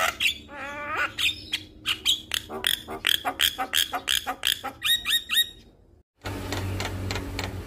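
Male Javan myna singing vigorously: a rapid string of short, harsh notes, several a second, with a wavering warbled phrase about a second in. The song cuts off about six seconds in, and a different recording follows with a low hum and fainter calls.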